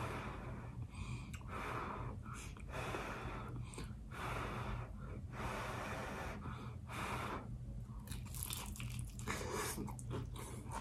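Close-miked chewing of a fried chicken pot pie egg roll: irregular soft crunching and wet mouth sounds, with breaths between bites.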